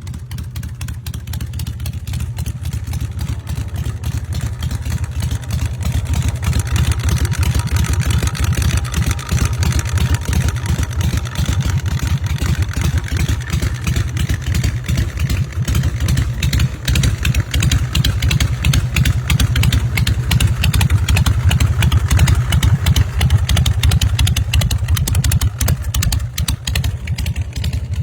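Motorcycle V-twin engine running with a deep, rapid rumble, growing louder over the first several seconds and staying loud.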